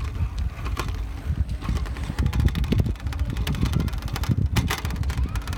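Wind buffeting a handheld phone's microphone on a moving bicycle: a steady low rumble with scattered short clicks.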